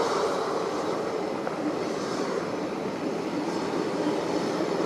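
Steady rushing noise of jet aircraft engines at an airport, even and unbroken, with no distinct tones.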